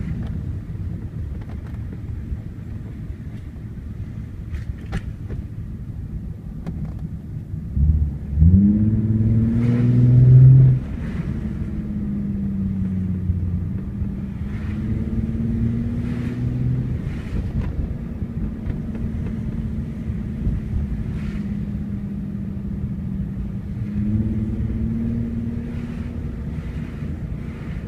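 Nissan 350Z's 3.5-litre V6 through a Tomei Expreme cat-back exhaust, heard from inside the cabin while driving: a steady low drone. About eight seconds in the revs climb under acceleration and get loud, then drop back to a steady cruise a few seconds later. There is a smaller rise in revs near the end.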